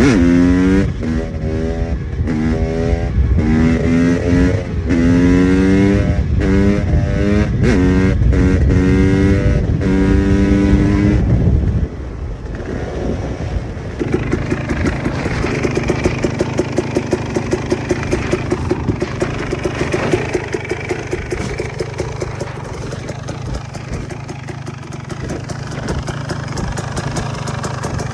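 KTM EXC 300 two-stroke single-cylinder enduro engine, its revs rising and falling again and again for about twelve seconds, then dropping to a lower, steady, pulsing run like a fast idle.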